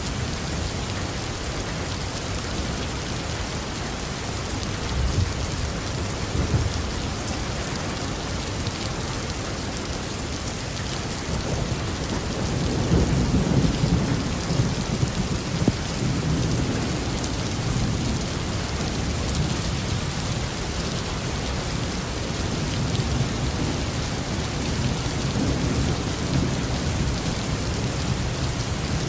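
Heavy rain falling steadily on a roof, with rolling thunder rumbling low beneath it, swelling a few seconds in and again more strongly about halfway through.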